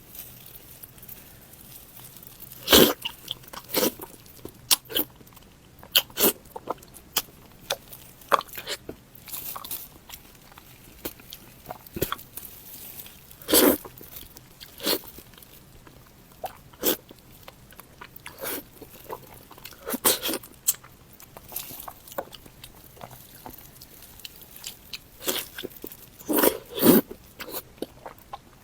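Close-miked eating mouth sounds: irregular wet bites, smacks and crunchy chewing, a sharp click every second or so.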